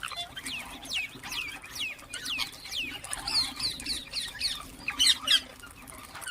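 Ringneck parakeets calling: a rapid run of short, downward-sliding squawks, about three a second, with two louder calls about five seconds in.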